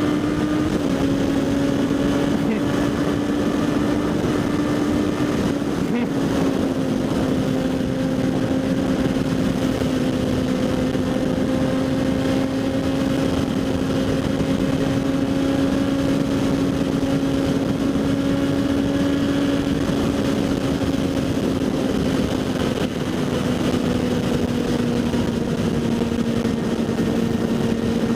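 Kawasaki Z800 inline-four with a LeoVince SBK exhaust, cruising at a steady throttle. The engine note holds even and drifts slowly lower in pitch, under constant wind rush picked up by the helmet-mounted microphone.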